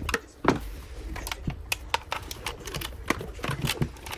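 A run of irregular sharp clicks and light knocks of small hard parts being handled, with one louder knock about half a second in.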